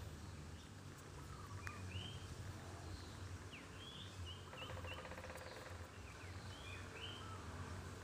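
Small birds chirping in short, separate calls, with a brief buzzy trill about halfway through, over a low steady background hum.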